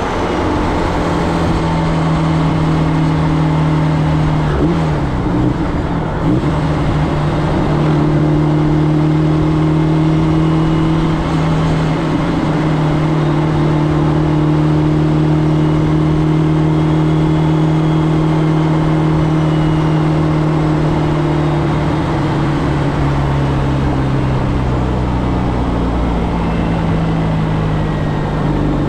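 Audi 1.8T turbocharged four-cylinder car driving, its engine note mostly steady. The pitch dips briefly about five seconds in, falls gradually in the last few seconds and picks up again right at the end.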